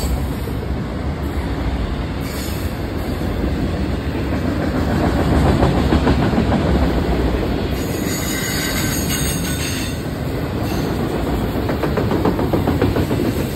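Freight train of enclosed autorack cars rolling past: steel wheels on the rails making a steady rumble, with repeated clacking in the second half as the wheels pass over rail joints.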